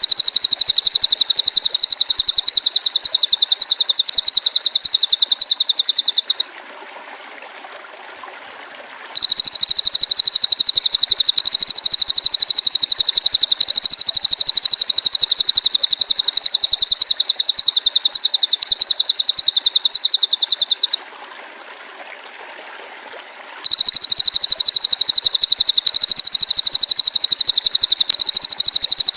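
Loud, high, rapidly pulsed buzzing trill from a masteran songbird-training track. It runs in long bouts and breaks off twice for about three seconds, leaving only a faint hiss.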